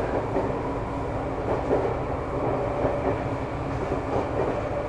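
Interior running noise of a Nagano Electric Railway 2100 series (ex-JR 253 series) electric train at speed: a steady rumble of the wheels on the rails heard from inside the passenger cabin.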